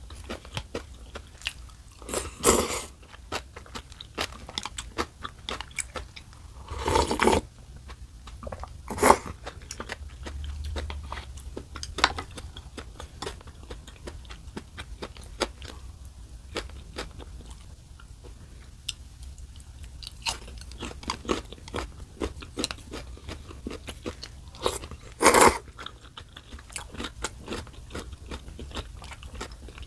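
Close-miked chewing and crunching of food, a run of small wet clicks and crunches, with a few louder bursts about half a second long, the longest about seven seconds in.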